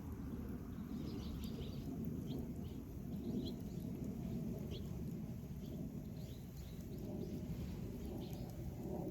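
Wood campfire burning with a steady low rush and a few faint crackles, while small birds chirp repeatedly in the background.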